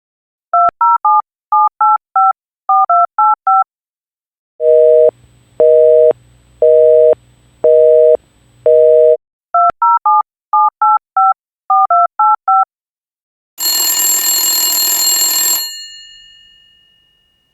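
A touch-tone phone number is dialed in three quick groups of tones, and a busy signal beeps five times. After a click the number is dialed again, and a telephone bell rings for about two seconds and then rings out.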